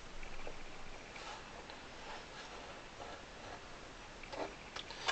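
Faint, irregular light clicks and taps of hand handling while glue is run into a gap along the lifting celluloid covering of an accordion, with a few sharper clicks near the end.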